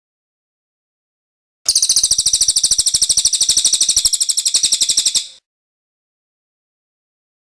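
A songbird's rapid, high-pitched trill of evenly repeated notes, about ten a second, starting under two seconds in and lasting about three and a half seconds before cutting off.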